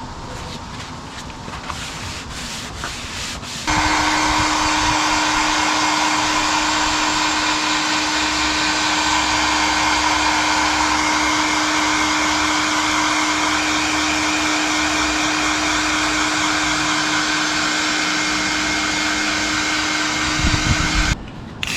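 A scratchy rubbing sound for the first few seconds. Then, about four seconds in, a small electric power tool starts and runs at a steady speed with a constant hum and a loud hissing grind, and it cuts off suddenly just before the end.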